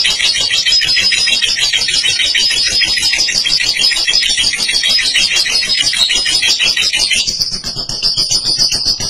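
Lovebird giving a long, loud ngekek: a rapid, high chattering trill held without a break. About seven seconds in it narrows into a thinner, steadier trill.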